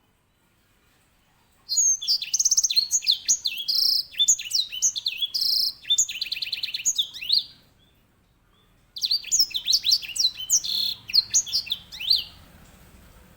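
Grey singing finch (edel sanger, Serinus leucopygius) singing its rolling song: two loud phrases of rapid, sharply falling whistled notes and trills. The first starts a couple of seconds in and lasts about six seconds. The second follows a pause of about a second and a half.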